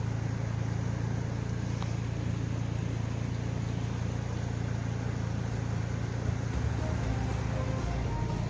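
A motor vehicle's engine running steadily, a low hum under a constant rushing noise. Faint music comes in near the end.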